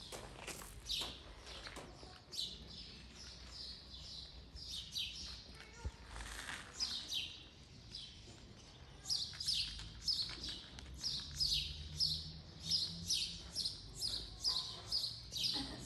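A small bird chirping: quick, high chirps that drop in pitch. They are scattered at first, then come steadily at about three a second and louder from about halfway through.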